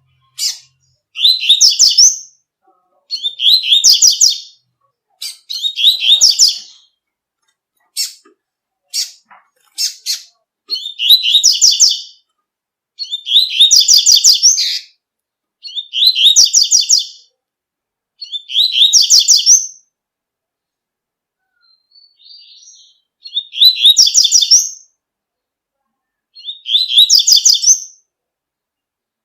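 Double-collared seedeater (coleiro) singing its tui-tui song: a short, bright, high-pitched phrase of about a second and a half, repeated nine times every two to three seconds. A few sharp single notes sound between phrases around a third of the way in, and a faint brief twitter comes in a longer pause.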